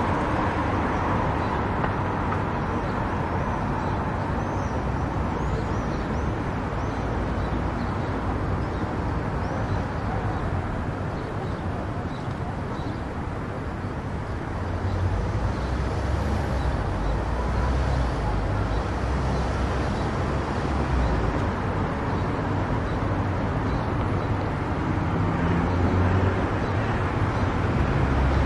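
Steady road noise of a car driving: tyre and engine noise with a low rumble that grows louder near the end.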